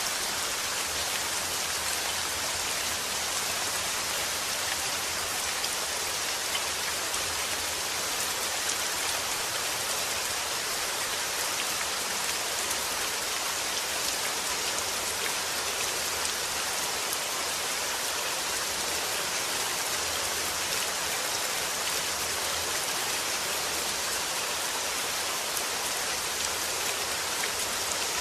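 Steady rainfall pattering on a surface, an even hiss of drops that neither builds nor fades.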